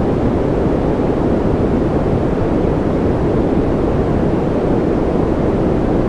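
Steady, unchanging white noise, deep rather than hissy, with most of its weight low and only a little high hiss.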